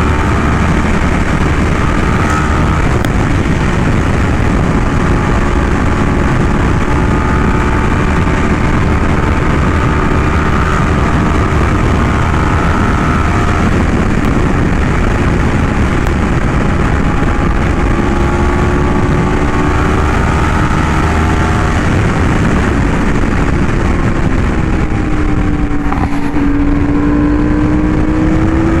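Yamaha R1M's crossplane inline-four, breathing through an SC Project exhaust, running at a steady highway cruise under a heavy, even rush of wind noise. Its pitch eases off slightly late on and then climbs again near the end.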